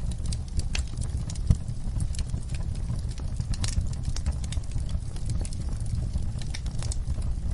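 Wood fire burning in a fireplace: irregular crackles and sharp pops over a steady low rumble of the flames, with one louder pop about a second and a half in.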